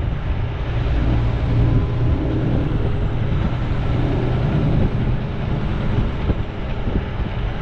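Semi truck on the move: steady diesel engine and road noise heard inside the cab.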